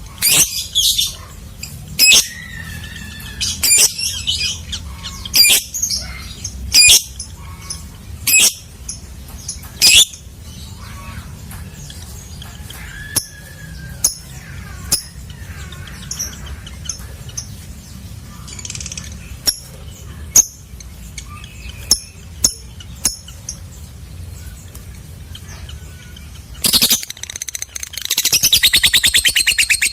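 Lovebird calling: loud, sharp, high chirps every second or two, thinning out after the first third. Near the end it breaks into a fast, continuous chattering trill, the long 'ngekek'. A steady low hum runs underneath.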